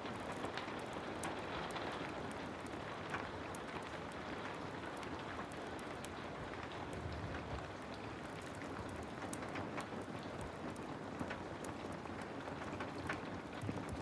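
Heavy rain falling in a steady hiss, dotted throughout with small sharp clicks and ticks.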